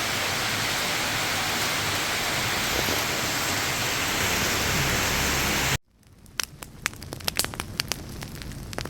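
Heavy rain hissing steadily, cutting off abruptly about six seconds in. It is followed by quieter rain with many separate drops ticking.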